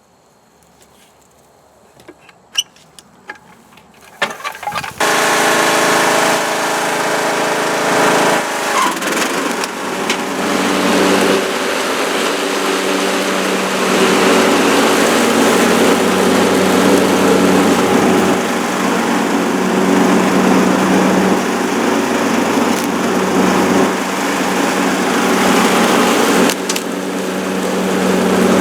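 Craftsman riding mower's Briggs & Stratton engine starting up about five seconds in, after a few sharp clicks, and then running steadily and loudly.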